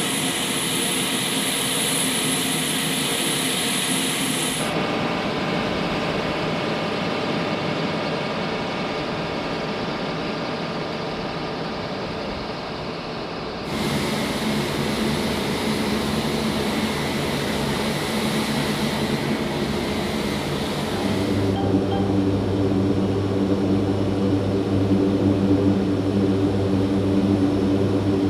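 Aircraft turbine engine noise: a steady whine over a rumble. The sound changes abruptly three times, about 5, 14 and 21 seconds in, as the footage cuts between recordings. The last stretch has a strong low hum.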